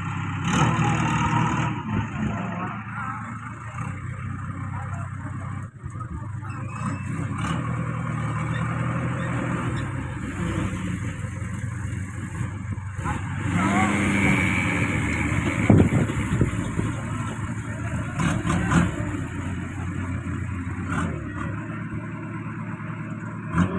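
Heavy diesel engines of a fully loaded truck and a JCB running and revving under load, with a rise in engine speed a little past halfway.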